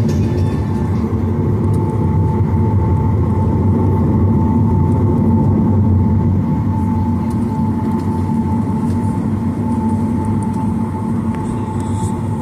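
Boeing 737-900ER's CFM56 jet engines and cabin air heard inside the cabin: a loud, steady low rumble with a thin steady whine above it.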